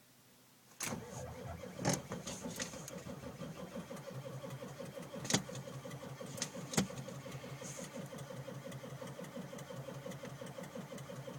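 1995 Ford F-350's 7.3 L Powerstroke diesel being cranked by its starter on a cold start at about minus 18, turning over steadily for about ten seconds without catching, with a few sharp knocks along the way, then the cranking stops suddenly.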